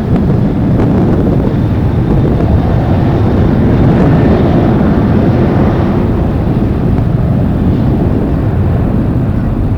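Steady jet airliner engine noise mixed with strong wind buffeting the microphone.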